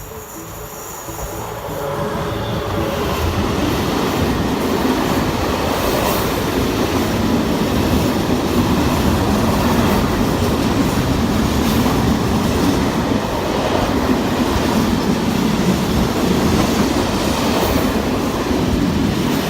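Train rolling past on the rails, a loud, dense rumble of wheels and running gear. It builds over the first couple of seconds, holds steady, and cuts off abruptly at the end.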